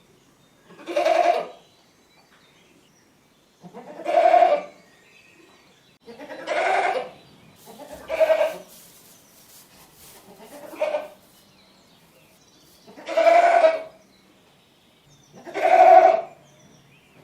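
Domestic goat bleating repeatedly: about seven separate bleats a couple of seconds apart, one of them short and weaker.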